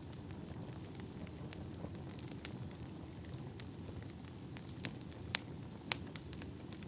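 Firewood burning: a steady low rumble of flames with scattered sharp pops and crackles, a couple of louder pops in the second half.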